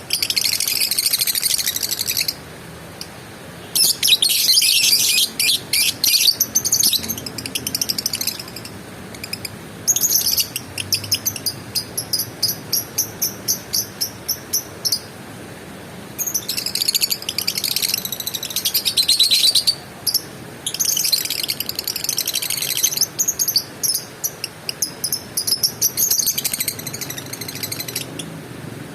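Lovebird chattering in long runs of rapid, high-pitched trills, each lasting a few seconds with brief pauses between them. This is the long chattering song that Indonesian keepers call ngekek.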